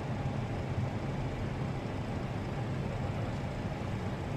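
Steady flight-deck noise of an airliner on short final: a constant low rumble of engines and rushing air, descending through about 200 feet.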